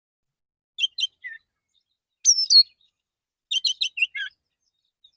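Male oriental magpie-robin singing: three short phrases of clear whistles and chirps, the middle one a loud whistle that falls in pitch, the last a quick run of about five notes.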